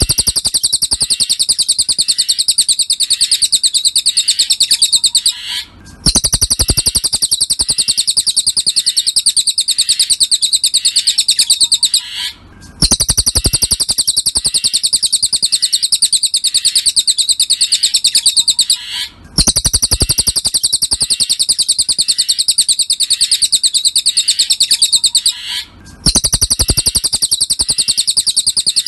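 Cililin songbird song used as a masteran: a very rapid, high-pitched trill delivered in long phrases of about six and a half seconds, each broken by a brief pause, four times.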